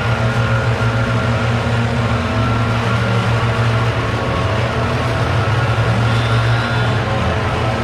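Gasoline engine of leaf clean-up power equipment running steadily at constant speed, a loud even drone.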